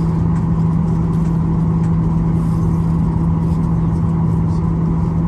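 Boeing 737-800's CFM56 jet engines heard from inside the cabin during takeoff, a steady loud drone with a constant low hum.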